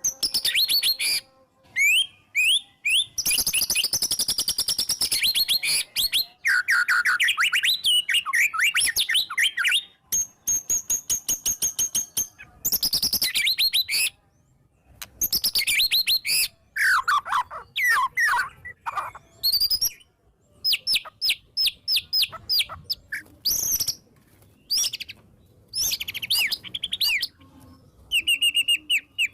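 White-rumped shama (murai batu) singing loudly in varied phrases: fast rattling runs of repeated notes, sweeping whistles that fall and rise, and quick high chips, with short pauses between phrases. It is the bird's full-voiced, excited song, packed with rapid 'shot' notes and fill-in phrases.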